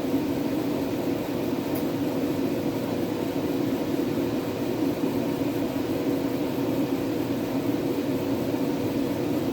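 Fiber laser engraving machine running with a steady fan hum, low and even, with a faint constant tone over it.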